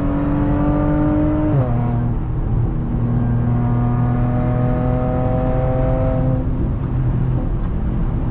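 Straight-piped Audi engine and exhaust pulling under acceleration: the note climbs steadily, drops sharply at a gear change about a second and a half in, then climbs again through the next gear before easing off near the end.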